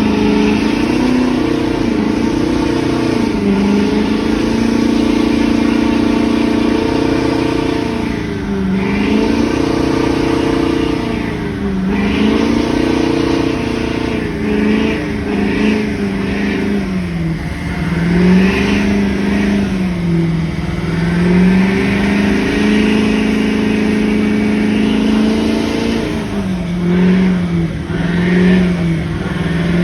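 Truck engine held at high revs in a burnout, its pitch repeatedly dropping and climbing back, with quicker dips near the end.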